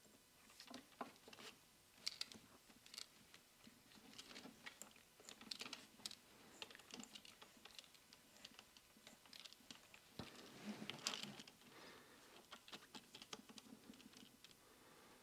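Near silence, broken by faint scattered clicks and light rustles of small metal parts and hose being handled at the bench, a little busier about two-thirds of the way through.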